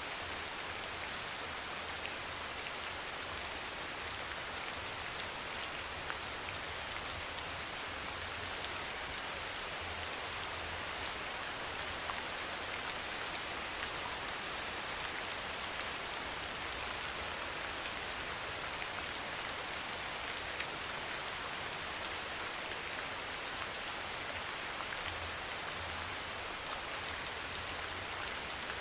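Steady rain falling: a dense, even patter with scattered sharper drop ticks and a faint low rumble underneath.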